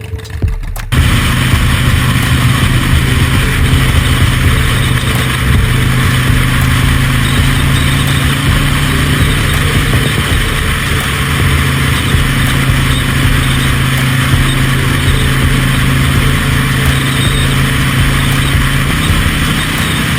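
A road vehicle's engine running at a steady speed under loud wind and road noise. Its note steps up slightly near the end.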